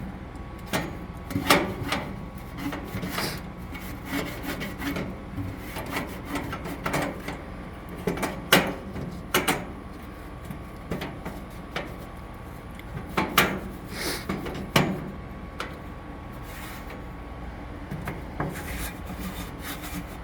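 Irregular scraping and rubbing strokes with occasional sharp knocks, from a microfiber cloth on a wooden paint stir stick being scraped along the inside of a grill to knock grime down into the drip pan.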